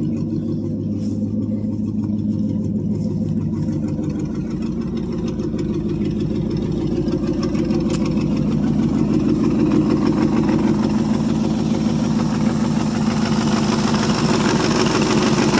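International 345 V8 engine of a 1973 International 1210 pickup running steadily after a cold start, getting somewhat louder from about halfway through.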